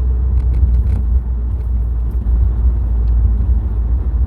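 Subaru WRX STI with its turbocharged flat-four engine driving on a snowy road: a steady, loud low rumble of engine and road noise.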